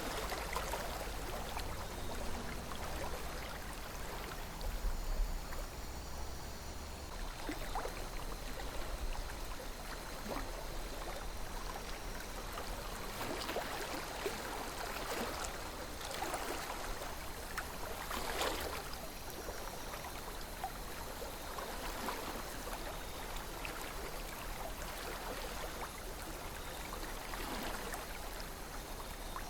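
River water flowing steadily, with brief gurgles and splashes every few seconds, the strongest about eighteen seconds in, over a low rumble.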